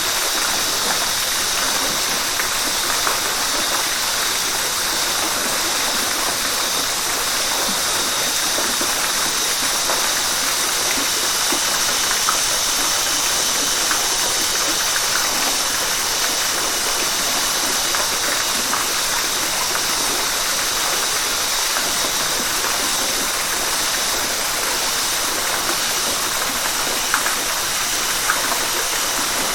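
River water rushing steadily: an even, hissing flow with little deep rumble and tiny splashes here and there.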